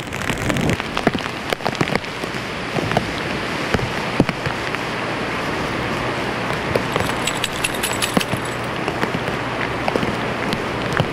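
Wind-driven hurricane rain: a steady rushing hiss, with scattered sharp taps of drops striking close by.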